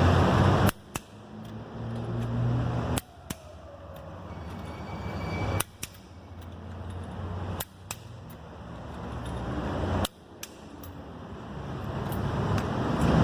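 Sharp single clicks at irregular intervals, typical of a click-type torque wrench tightening wheel nuts to torque. Under them a low hum swells and cuts off abruptly several times.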